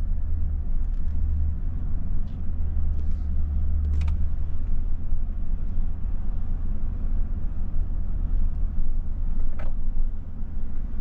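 Car driving, heard from inside the cabin: a steady low engine and road rumble, with a few faint brief clicks.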